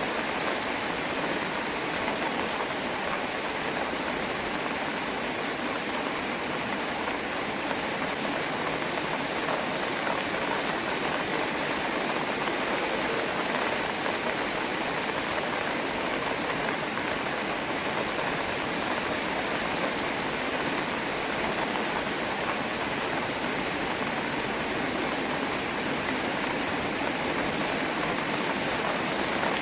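Steady rain falling in a park by a pond: an even, unbroken hiss of drops with no single sound standing out.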